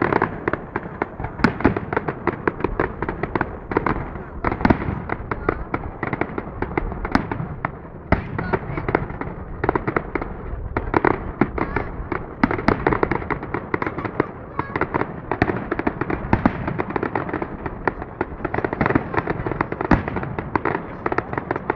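Fireworks display: a dense, continuous volley of bangs and crackles, many per second, with no break.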